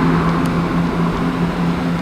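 Diesel engines of a Class 165 Networker Turbo diesel multiple unit pulling away, a steady low drone that pulses evenly, called quite a nice sound.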